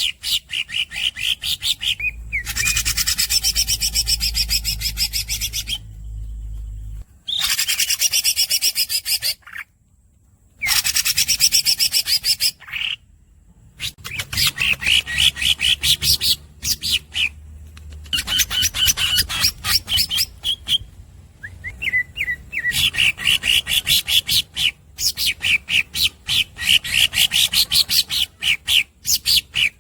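Greater green leafbird (cucak ijo) singing: long, fast rolling trills of squeaky high notes in phrases a few seconds long, broken by short pauses.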